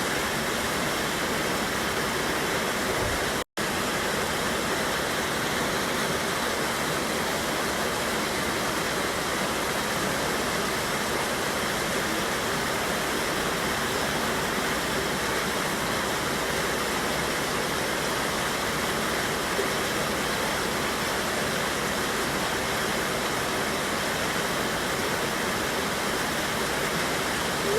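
Steady rush of a river waterfall, an even unbroken roar of water. It cuts out for an instant about three and a half seconds in.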